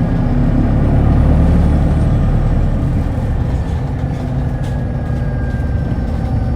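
Hino Blue Ribbon hybrid city bus heard from inside the cabin while driving: a steady low engine and drivetrain rumble, with a faint whine that slowly falls in pitch.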